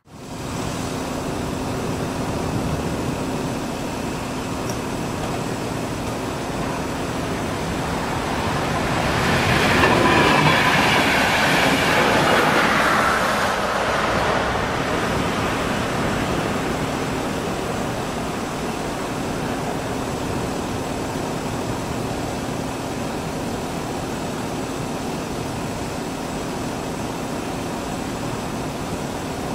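Train passing on the rails, loudest about ten seconds in with a falling pitch as it goes by, then a steady rolling rumble of wagons.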